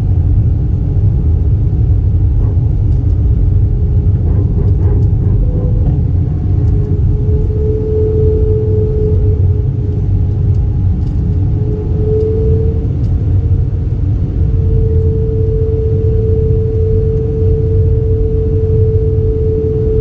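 Airbus A320 cabin noise: a steady loud engine and airflow rumble with a humming tone that swells and fades, holding strongest in the second half.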